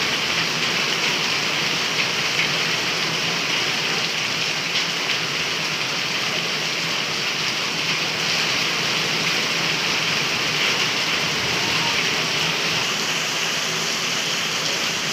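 Steady, even rush of water from heavy rain and fast-flowing floodwater, unchanging throughout.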